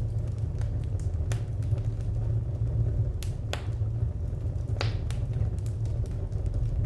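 Wood fire crackling: irregular sharp pops and snaps, a few louder ones in the middle, over a steady low rumble.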